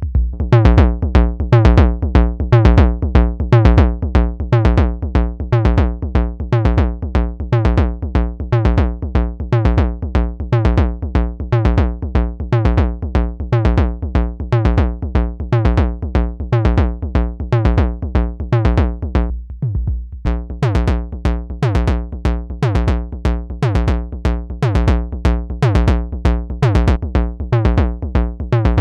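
Analog semi-modular drum synthesizer playing a sequenced groove: a quick, steady pulse of pitched percussive hits whose tones drop in pitch as they decay, over a constant low bass. About two-thirds of the way in the upper hits briefly drop out, then return brighter.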